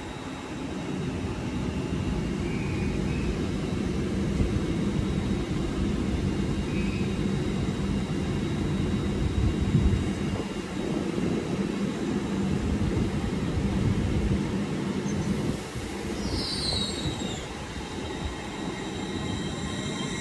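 Class 802 TransPennine Express train pulling out of the station: a steady low rumble with a hum that eases off after about fifteen seconds.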